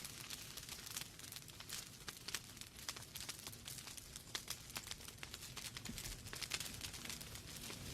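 Wood fire in a fireplace crackling: many irregular sharp pops and snaps of burning logs over a soft steady hiss.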